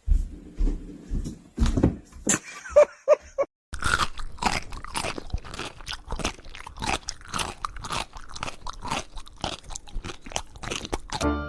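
A pet chewing something crunchy, with crisp, irregular crunches at first, then, after a short break about four seconds in, steady crunching several times a second.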